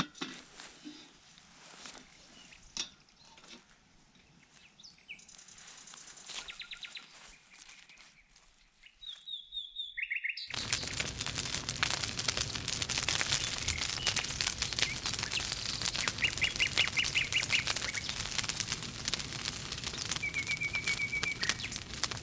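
Birds chirping in short trills. About halfway in, a dense crackling of many sharp pops starts suddenly and continues, the crackle of a burning campfire.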